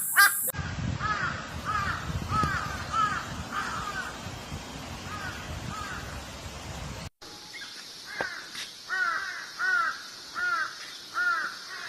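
Crows cawing, a run of harsh repeated caws about two a second over a low background rumble. About two-thirds of the way through, the sound cuts abruptly to another recording with clearer, more rapid caws.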